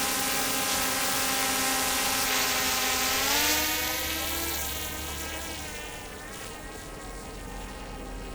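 Quadcopter drone's propellers buzzing with a steady whine. The pitch rises about three seconds in as the motors speed up, then the sound grows fainter as the drone pulls away.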